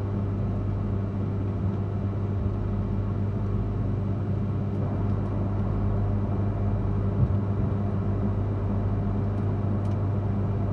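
Cabin sound of an E3 series 2000 shinkansen pulling out of the station: a steady low hum that grows slightly louder as the train gathers speed, with one short knock about seven seconds in.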